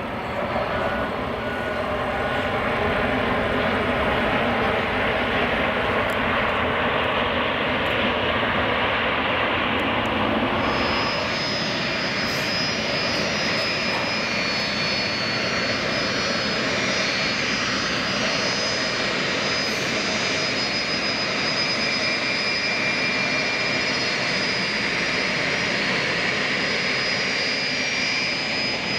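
Boeing 757 jet engines running loud and steady; about a third of the way in, high-pitched whining tones join the engine noise and hold.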